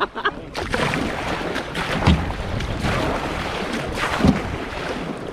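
River water splashing and rushing around a kayak, with wind buffeting the microphone. There are two heavier low thumps, about two and four seconds in.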